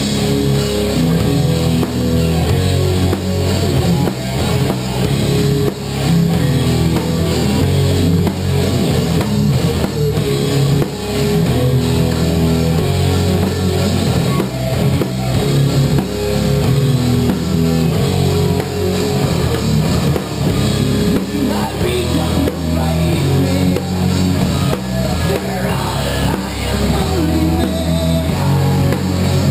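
Rock band playing live, with drum kit and guitar, loud and continuous.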